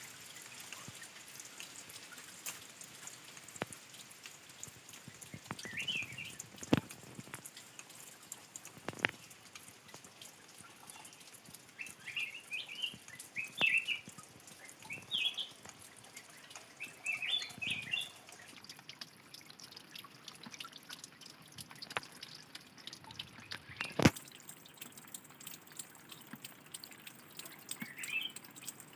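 Water dripping and splashing from a small spring-fed cascade, with birds chirping in short bursts of quick high notes now and then.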